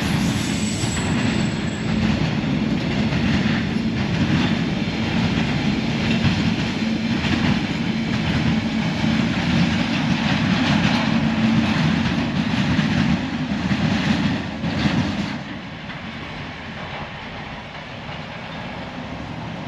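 Narrow-gauge container freight train rolling past, its wagons' wheels running steadily on the rails. The sound drops sharply about fifteen seconds in, leaving a quieter steady hum.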